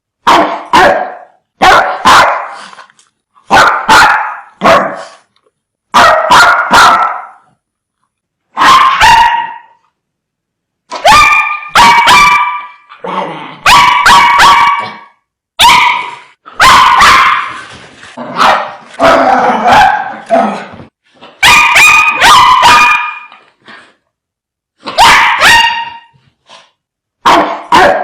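Dogs barking fiercely in short clusters of one to three loud barks, with brief silent gaps between the clusters.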